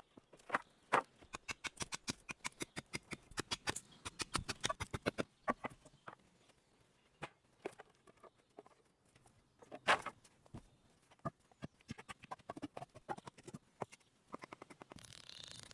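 Quick runs of sharp knocks and clicks, several a second, with a single louder knock about ten seconds in. A steady hiss comes in near the end.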